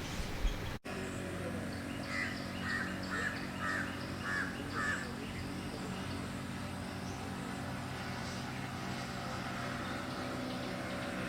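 A crow cawing about six times in quick succession, over a steady low hum.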